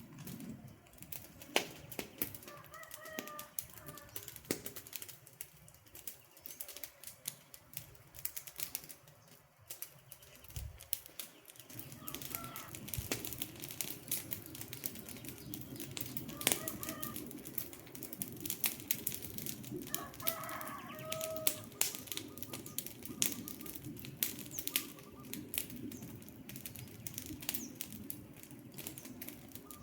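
Wood fire crackling and popping with irregular sharp snaps, over a low steady rush of burning that grows fuller about halfway through. A few short bird calls come through now and then.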